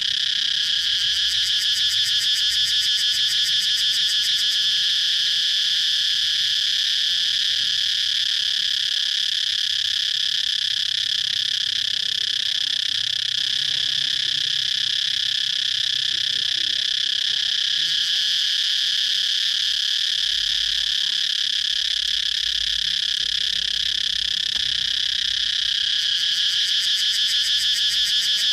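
Cicadas singing: a loud, continuous high-pitched buzz that holds steady throughout, with a rapid pulsing in the first few seconds and again near the end.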